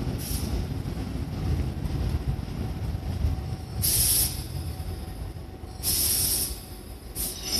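Tobu 8000 series electric train rolling into the platform and slowing to a stop, with a steady low rumble from wheels and running gear. Short bursts of air hiss from the brakes come about four seconds in, again around six seconds, and briefly near the end.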